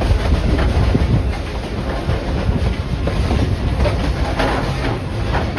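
Narrow-gauge steam train in motion: a steady low rumble with irregular clatter of wheels on the track.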